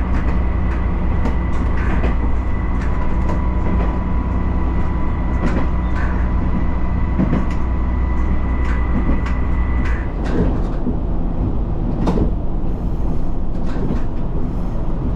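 Nagara River Railway diesel railcar running along the line, with a steady low rumble and scattered clicks from the wheels on the rail. A steady whine above the rumble stops about ten seconds in.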